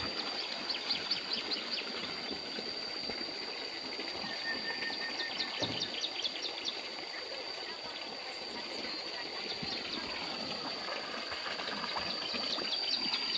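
Tropical forest ambience: a steady high-pitched insect drone, with a bird giving rapid series of chirps three times, near the start, midway and near the end.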